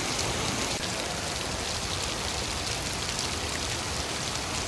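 Rain falling steadily, a constant hiss with many small drop hits on nearby surfaces; the rain is getting heavier.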